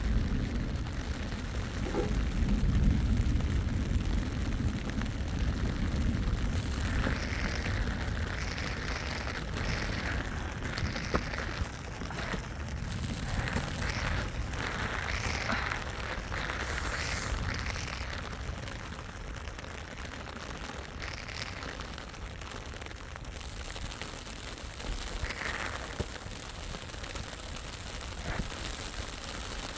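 Steady rain falling, with a low rumble that is strongest in the first several seconds and then eases.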